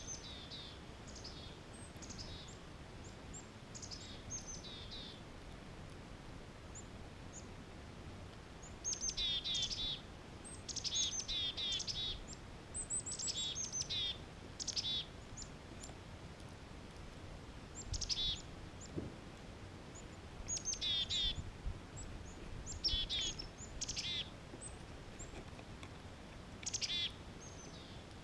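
A songbird singing: phrases of quick, high, downward-sweeping notes repeated in bouts every second or two. The phrases are louder from about a third of the way in.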